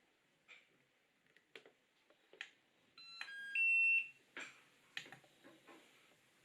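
A quick run of stepped electronic tones about halfway through, ending in a loud, steady high beep about half a second long, from a piece of workbench electronics. Light clicks and knocks of parts being handled come before and after it.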